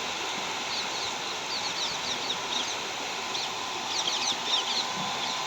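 Steady hiss of rain with birds chirping over it: quick, short high chirps in bursts, busiest about a second and a half in and again near four seconds.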